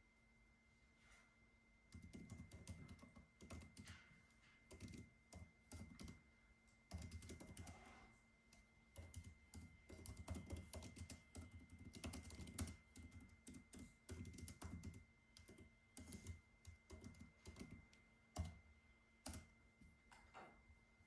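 Typing on a computer keyboard: irregular runs of key clicks starting about two seconds in, broken by short pauses. A faint steady high tone runs underneath.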